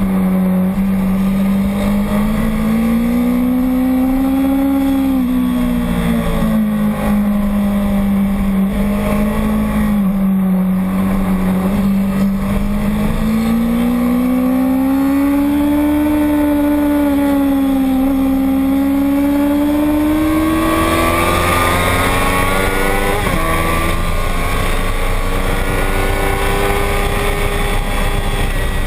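Racing motorcycle engine running continuously on a circuit, its note rising and falling with the throttle, climbing higher after about 20 seconds with a brief break near the end that sounds like a gear change, while rushing noise grows.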